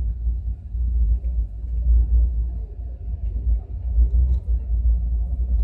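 Passenger train running across a river bridge, heard from a carriage window: a low, uneven rumble.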